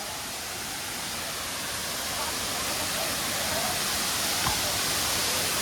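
Large waterfall's steady rush of falling water, loud enough to drown out speech, gradually getting louder. Faint voices sit under it, and there is a brief click about four and a half seconds in.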